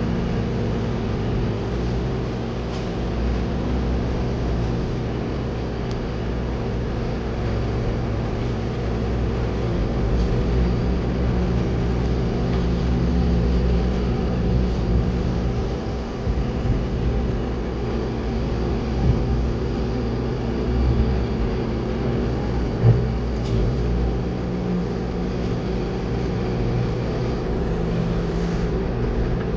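Concrete mixer truck's diesel engine running steadily, heard from inside the cab, with a few faint knocks.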